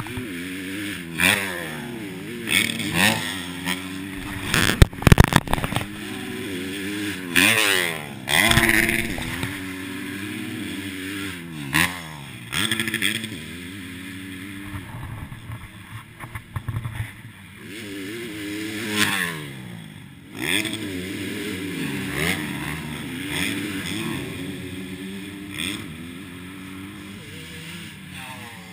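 Motocross dirt bike engine revving up and falling back again and again, as it does through the gears and over the track. A burst of loud knocks and clatter comes about five seconds in.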